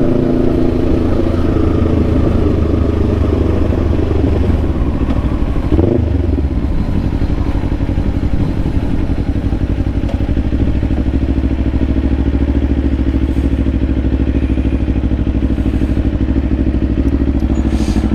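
Kawasaki Ninja 500's parallel-twin engine running, its pitch dropping as the bike slows; about six seconds in it settles to a steady low idle.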